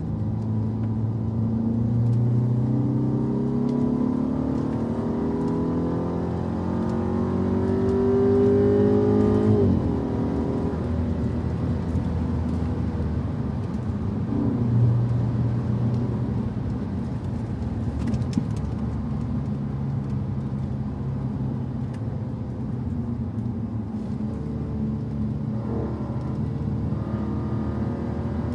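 Car engine under acceleration: the revs climb steadily for about seven seconds, drop abruptly about ten seconds in, then run at lower, steadier revs, rising a little again near the end.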